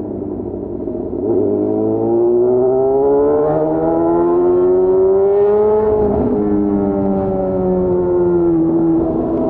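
Yamaha FZ6's 600 cc inline-four engine pulling under throttle, its revs climbing steadily for several seconds from about a second in, with a short dip about six seconds in, then holding and easing off slightly near the end.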